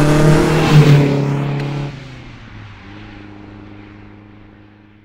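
Car engine revving, its note climbing slowly and loudest about a second in, then dropping sharply near the two-second mark to a lower, quieter note that fades out.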